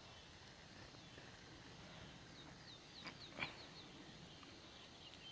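Near silence outdoors, with a bird chirping faintly: a quick run of about eight short, high, falling chirps about halfway through, and two faint ticks around the same time.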